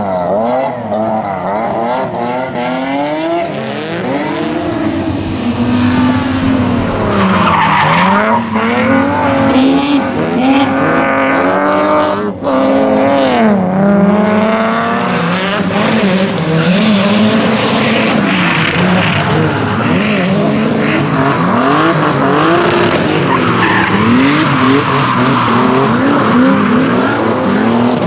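Rally car engine revving hard, its pitch rising and falling every second or two as it is driven in slides, with tyres squealing and skidding on the tarmac.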